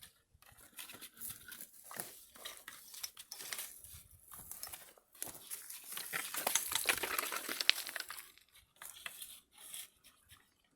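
Rustling and crinkling with many scattered clicks, like material being handled, loudest in the middle.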